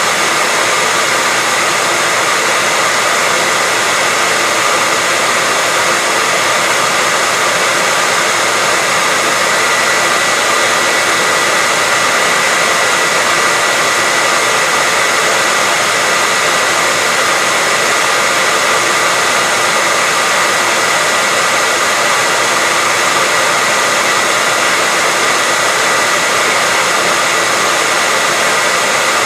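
Hair dryer blowing steadily: a constant rush of air with a steady high whine from its fan motor.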